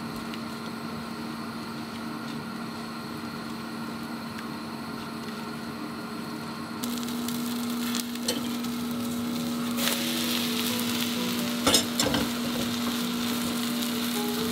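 Beaten egg with chopped tomato sizzling in a nonstick frying pan while a spatula stirs and folds it. The sizzle grows louder about halfway through, with a few sharp knocks of the spatula against the pan near the end.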